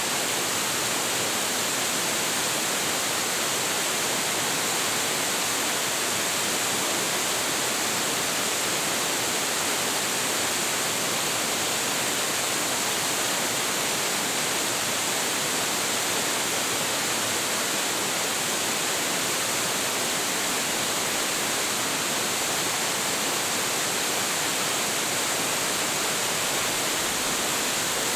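Large waterfall, a tall drop with heavy flow, crashing down in a steady, unbroken rush of water with most of its energy in the upper hiss.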